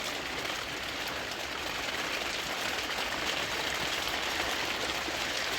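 Heavy rain pouring down steadily: an even, dense hiss with no breaks.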